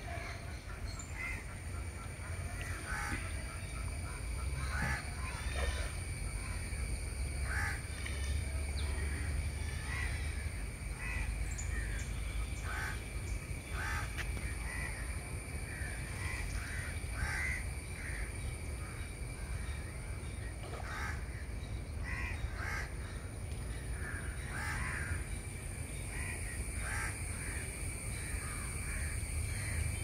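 Birds calling again and again with short, harsh calls scattered through the whole stretch, over a steady low rumble and a faint steady high hum.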